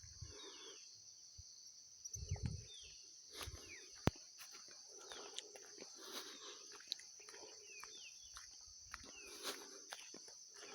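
Forest ambience: a steady high insect drone with short, falling bird chirps repeating throughout, and scattered footsteps, knocks and a sharp snap about four seconds in.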